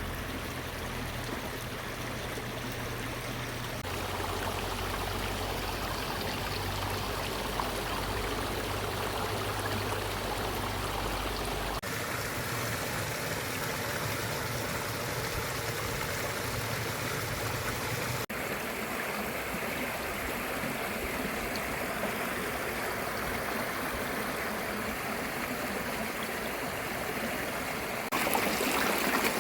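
Steady rush of running water, like a stream, changing abruptly at a few cuts. A low steady hum lies underneath during the first part.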